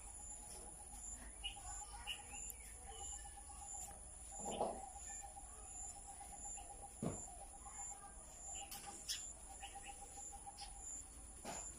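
Faint chirps from small birds, scattered over a steady high insect trill and a continuous pulsing lower trill, with a few soft knocks.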